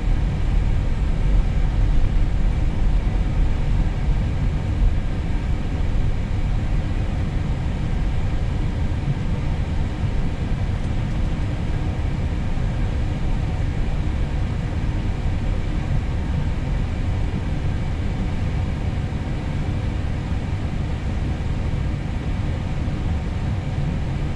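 Cockpit noise of an Airbus A320neo taxiing: engines and air conditioning running steadily as an even low noise with a few faint steady tones.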